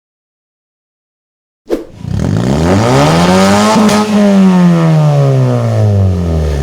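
Car engine revved once through an aftermarket stainless-steel racing exhaust: silence at first, a click, then the engine note climbs steadily to a peak midway and sinks back down as the throttle is released.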